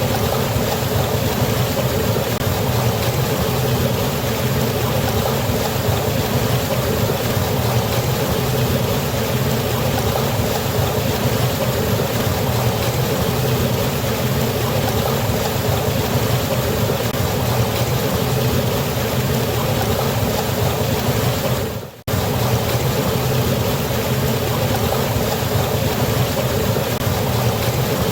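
Waterfall rushing steadily, an even wash of water noise. It cuts out for a split second about three-quarters of the way through.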